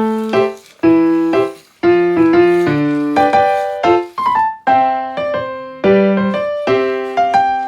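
Background piano music: a light melody of struck notes and chords, each ringing and then fading.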